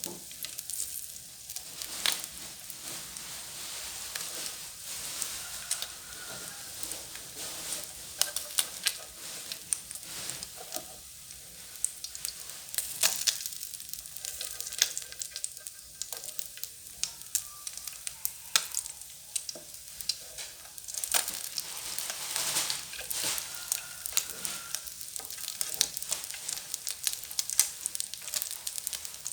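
Small freshwater field fish frying in hot oil: a steady sizzle with frequent sharp pops and crackles.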